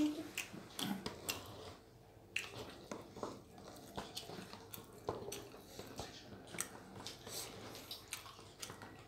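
Close-up chewing and lip-smacking of a person eating dhido by hand, with irregular wet clicks of the mouth.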